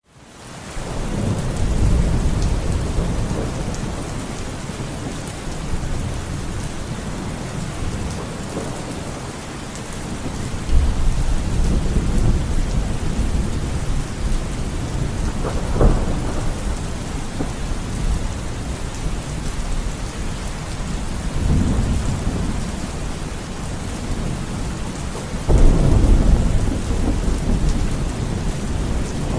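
Steady rain with rolling thunder: deep rumbles swell and fade several times, a short sharp crack comes a little past halfway, and a sudden louder thunderclap breaks in a few seconds before the end. The sound fades in at the very start.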